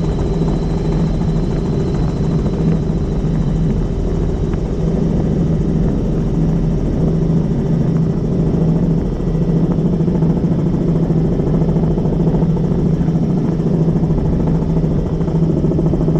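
Helicopter in flight, its rotor and engine making a loud, steady drone with a fast low beat.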